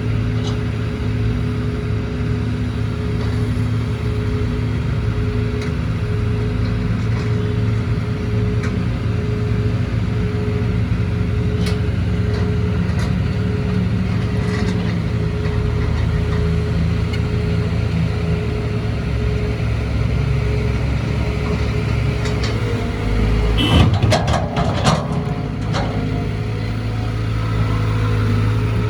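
Caterpillar C4.4 four-cylinder diesel engine of a Cat 320GC excavator running steadily. Near the end there is a brief clatter of knocks and rattles.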